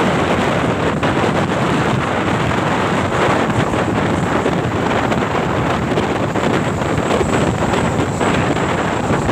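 Loud, steady wind rushing across the microphone, with road vehicle noise underneath.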